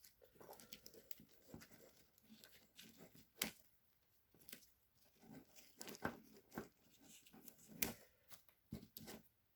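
Faint tearing and crinkling of wiring-harness wrap tape being split and peeled off an engine wiring harness, with a few sharp clicks, the loudest about three and a half seconds in.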